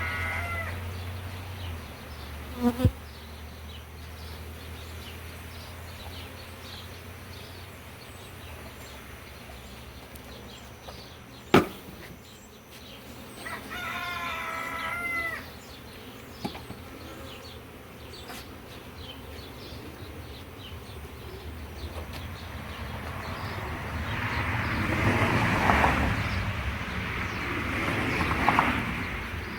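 Honeybees buzzing in the air around an open hive, single bees swelling loud as they fly close past, with a few sharp knocks in between.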